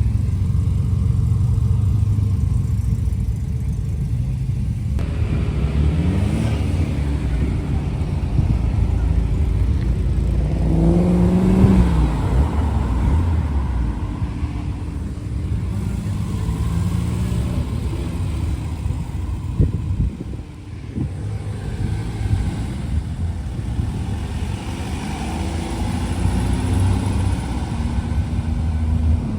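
Car engines running close by, with rising revs as a car accelerates, once about six seconds in and again, louder, around eleven seconds.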